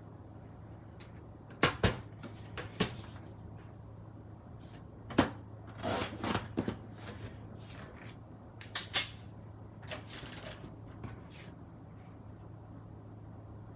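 Scattered light taps and clicks of small craft items being picked up and set down on a table, a short cluster of them about six seconds in, over a steady low hum.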